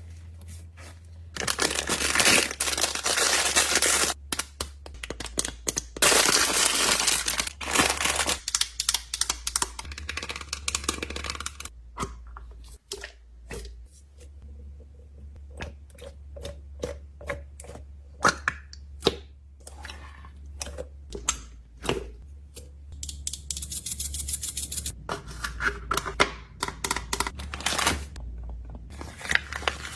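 Plastic packaging crinkling and tearing open in two long stretches, then a run of scattered clicks and taps as small items are handled and packed.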